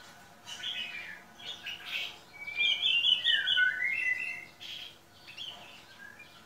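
White-rumped shama (murai batu) calling: a few soft short chirps, then about two and a half seconds in a louder phrase of quick high notes with a falling glide lasting nearly two seconds, followed by a couple of faint calls.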